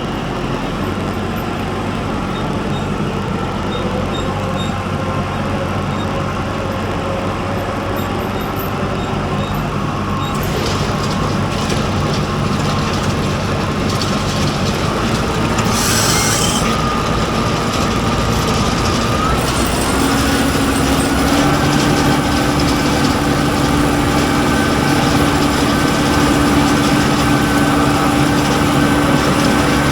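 A vehicle engine running steadily under load, its pitch stepping up about twenty seconds in, with a brief hiss around the middle.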